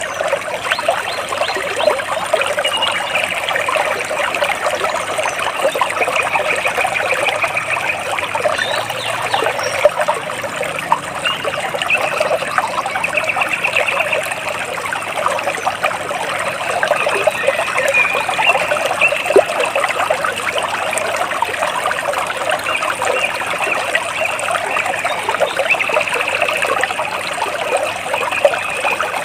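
Water splashing and trickling steadily, with a bird singing short trills every few seconds over it.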